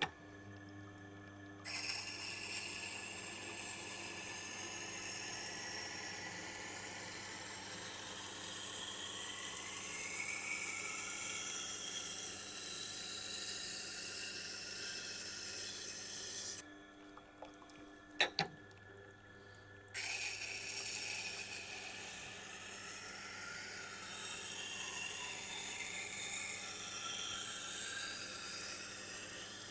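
Tormek T8 wet grinder's SG-250 stone grinding the bevel of a hard-steel nakiri knife, a steady hiss of steel on wet stone. It runs in two long passes with a break of about three seconds between them, broken by a single click. The hard steel takes a lot of grinding to raise a burr.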